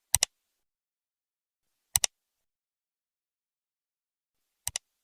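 Three short double clicks about two seconds apart, with complete silence between them; the last is quieter.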